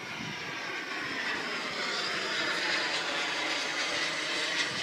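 RC jet model aircraft flying, its engine's rushing whine growing steadily louder as it approaches.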